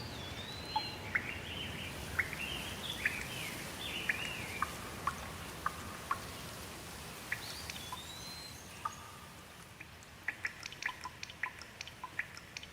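Birds singing in short whistled phrases that rise and fall, over a steady hiss of rain. From about ten seconds in, water drips fall in a quick, irregular patter.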